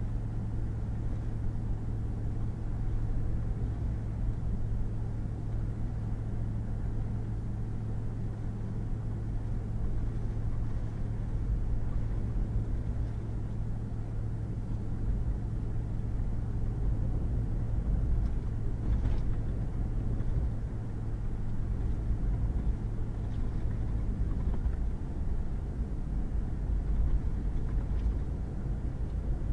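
Pickup truck driving on a gravel and mud road: a steady engine drone with low tyre and road rumble. The engine note changes pitch about two-thirds of the way through.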